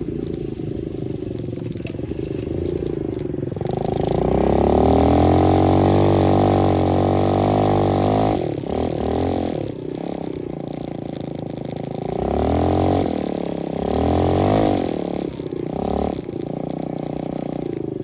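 125cc dirt bike engine running and revving. It climbs sharply about three and a half seconds in and holds high for several seconds, then drops back. Two shorter revs come near the end.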